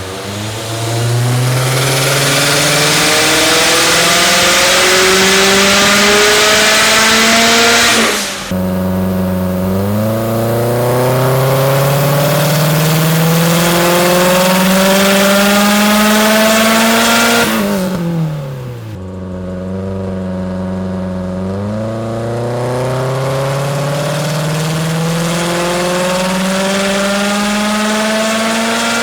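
2004 Subaru STI's turbocharged 2.5-litre flat-four engine revving hard under load on a dyno, its pitch climbing steadily in long pulls. The pitch drops sharply about eight seconds in, falls away again around eighteen seconds before easing back, then climbs once more in a third pull.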